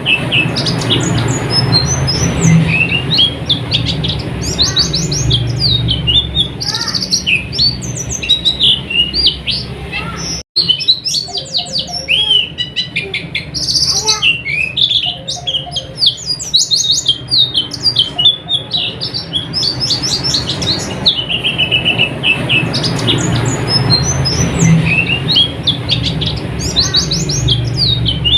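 Pleci (white-eye) singing a fast, continuous twittering song of high chirps and trills over a low background rumble, with a brief break about ten seconds in.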